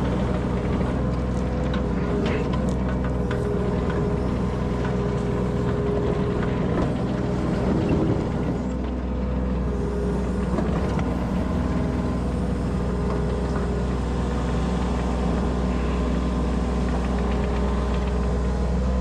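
Kubota compact machine's diesel engine running at a steady speed, with a few faint knocks about two to three seconds in.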